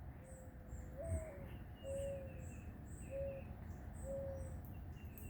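A dove hooting: one long coo that rises near its end, then three shorter coos. Faint high chirps of other birds or insects carry on behind.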